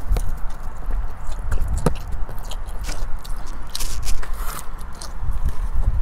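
Close-up mouth sounds of a fast-food burger being bitten and chewed, with irregular wet clicks and crackles. A steady low rumble runs underneath.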